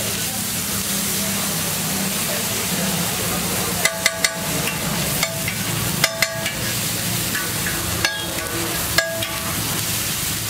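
Onion, tomato and masala sizzling in oil on a large flat tawa griddle, with a low steady hum underneath. From about four to nine seconds the metal spatula strikes the griddle several times, sharp clinks that ring briefly.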